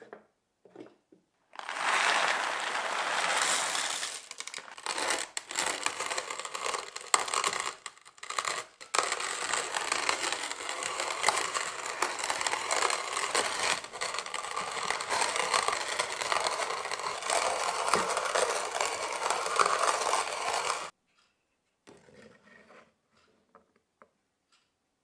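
Restored hand-cranked coffee grinder grinding beans: a dense, crackling grind that starts about two seconds in, pauses briefly a few times, and stops about three-quarters of the way through, followed by a few faint clicks.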